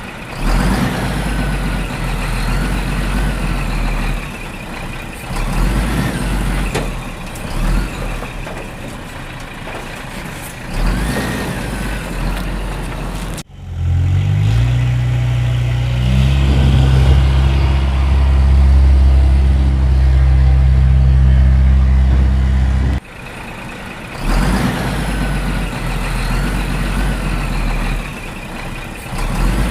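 Cartoon vehicle sound effects of heavy engines running. Just before the middle, the sound cuts abruptly to a steady, low engine drone that rises in pitch as it starts, then cuts back to the noisier engine sounds near the end.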